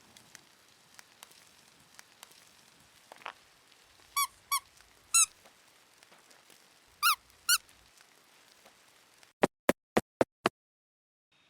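Five short, high squeaks that bend in pitch, in two groups, over a faint background with small ticks. Near the end the sound drops to dead silence, broken by five sharp clicks in quick succession.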